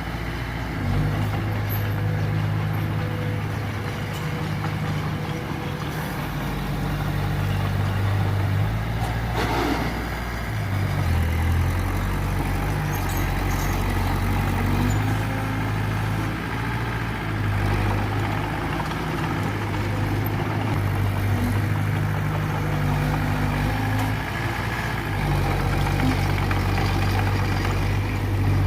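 Diesel engine of heavy earthmoving machinery running steadily, its low drone shifting in pitch and load every few seconds. About nine seconds in there is a single short knock.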